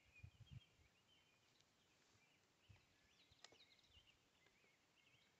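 Near silence: faint birds chirping in the background, with one faint click about three and a half seconds in.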